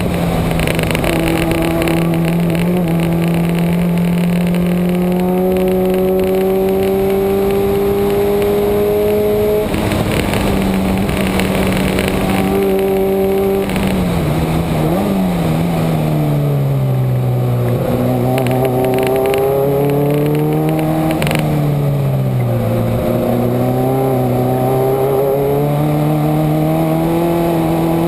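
Subaru flat-four engine under load at track speed, its note climbing slowly through long pulls and dropping at lifts or gear changes about ten seconds in, near the middle and about two-thirds through, with a quick rise and fall of pitch just after the middle. Wind and tyre rush sit under the engine throughout.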